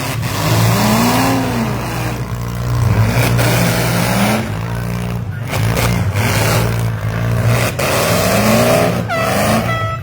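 Demolition derby vans, SUVs and mini trucks revving their engines, the pitch repeatedly climbing and falling, with a few bangs of vehicles hitting each other. A car horn starts sounding near the end.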